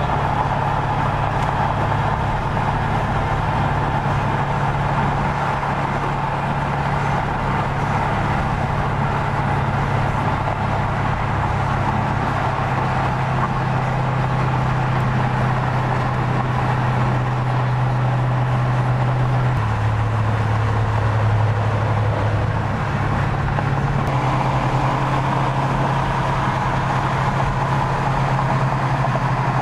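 Car engine running at a steady speed, a continuous drone with road noise. The pitch drops about two-thirds of the way through and comes back up a few seconds later.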